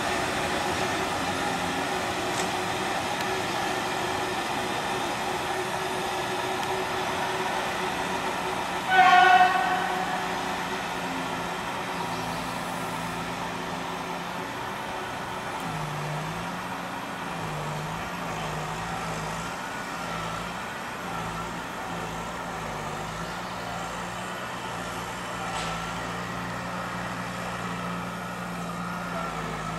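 Steady running noise of a passenger train hauled by an EU07 electric locomotive pulling away, with a train horn sounding once, briefly and loudly, about nine seconds in. From about halfway, a low engine hum whose pitch wavers comes in underneath.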